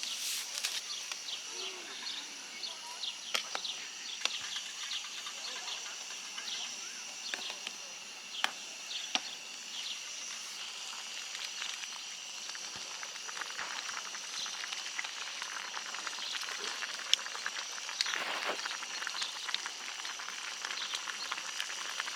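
Summer outdoor ambience of insects chirring: steady high-pitched trills with many short chirps running throughout, and a few sharp clicks scattered through it.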